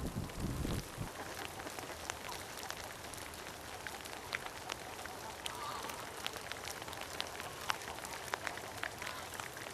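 Rain falling: a steady hiss with many separate drop ticks scattered irregularly through it. A low rumble sits under it in the first second, then drops away.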